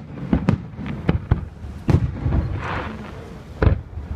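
Fireworks display: a run of sharp, separate bangs from bursting shells, about five, with a crackling burst of glitter about two and a half seconds in.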